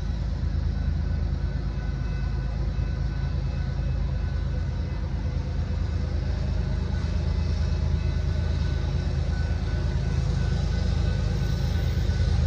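Diesel locomotive running with a steady low engine drone.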